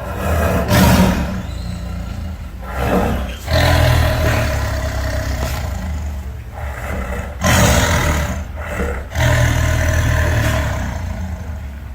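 Designed Carcharodontosaurus roars, layered from King Kong, gorilla and big-cat recordings: about four deep, drawn-out roars with a low rumble between them.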